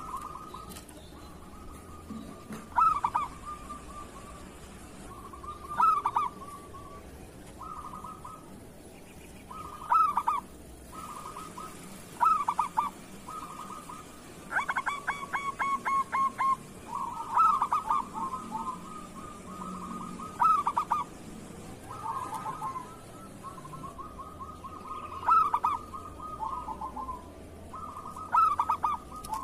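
Local zebra doves (perkutut) cooing, several birds overlapping in repeated short phrases every two to three seconds. Midway there is a rapid stuttering run of notes.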